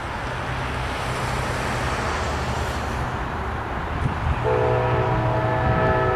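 GE AC44CW diesel locomotives approaching, their engines a steady low rumble. About four and a half seconds in, the lead unit's Nathan K5LA air horn starts sounding a held, multi-note chord.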